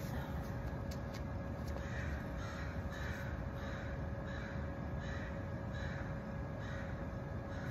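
An animal, most likely a bird, calling about once a second, starting about two seconds in and repeating some seven or eight times, over a steady hum and low rumble.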